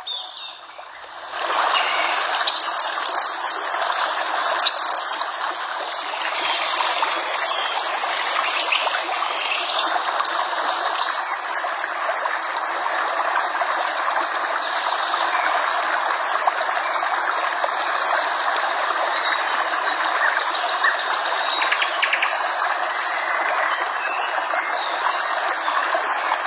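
Water flowing steadily, like a stream, with small birds chirping now and then. It starts about a second and a half in.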